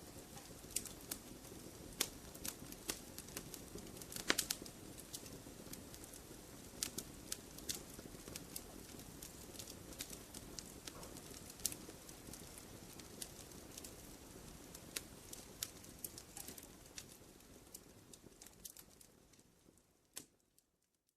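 Wood campfire burning, with frequent sharp crackles and pops over a steady low rustle of the flames. A cluster of loud pops comes about four seconds in, and the sound fades out just before the end.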